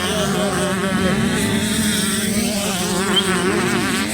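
Motocross bike engines buzzing and revving, their pitch wavering up and down as the throttle is worked.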